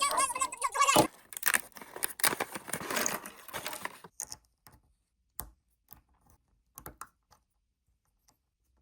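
Plastic blind bag crinkling and tearing open, with a sharp knock about a second in. After about four seconds it gives way to a few scattered light clicks.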